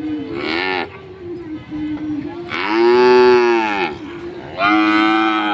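Cows mooing: a short moo, then a long, loudest moo rising and falling in pitch, then another starting near the end, over a steady low hum.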